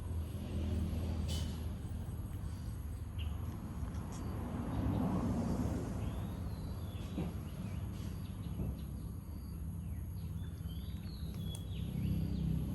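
Outdoor background noise: a steady low rumble, with a few short, faint high chirps, mostly in the second half.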